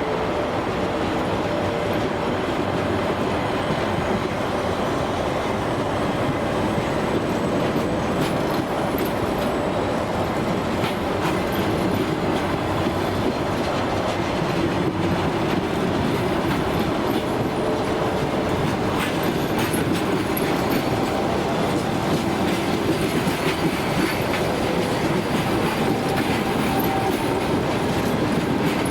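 A train rolling along the tracks: a steady rumble of wheels on rail with scattered clicks over the rail joints, growing slightly louder toward the end.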